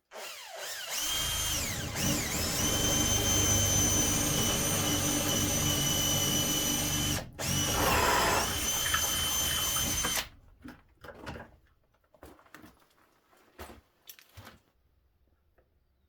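Power drill running for about ten seconds: the motor whines up to speed at the start, stops briefly about seven seconds in and starts again, then cuts off, followed by a few light clicks and knocks.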